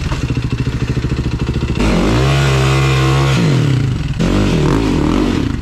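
Husqvarna TE300i single-cylinder two-stroke enduro engine under way: it chugs at low revs off the throttle, is opened up about two seconds in to a steady higher rev, drops off around four seconds in, then revs up again near the end.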